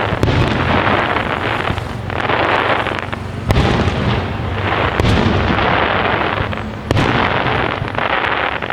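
Large professional fireworks display: shell bursts going off as four sharp reports, near the start, about halfway, and twice more later, with a dense, grainy crackle and rumble filling the gaps between them.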